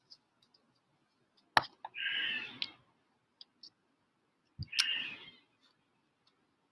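Two sharp clicks, each followed by a short harsh bird call, with a few faint ticks in between.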